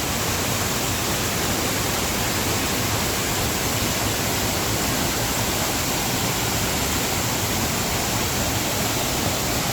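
Waterfall pouring into a pool below it, a steady, even rush of falling water.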